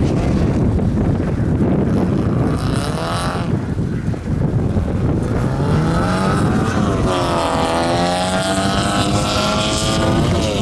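A car engine being driven hard through a gymkhana run, revving up and easing off in turn. The pitch climbs twice, the second time in a long climb through the back half, and each climb ends in a sharp drop as the driver lifts.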